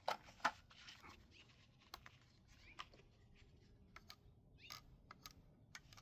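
Faint, scattered plastic clicks and handling noises from a hand reaching under the body of a small RC truck to switch it on, the sharpest about half a second in.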